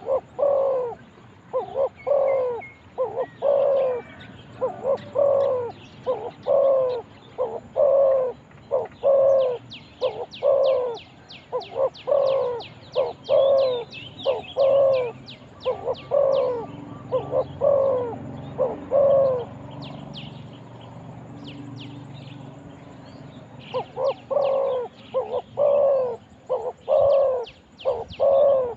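Spotted dove cooing: a long, regular run of low notes about two every three seconds, which stops for a few seconds about two-thirds of the way through and then starts again. A smaller bird briefly chirps a fast run of high notes partway through.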